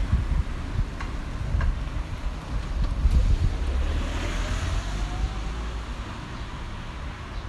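Wind buffeting the microphone as a low, uneven rumble, with a fainter hiss swelling and fading about four seconds in.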